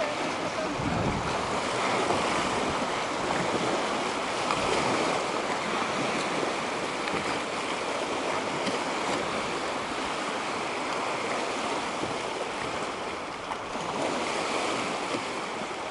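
Steady wind with waves washing, an even rushing noise that stays level throughout.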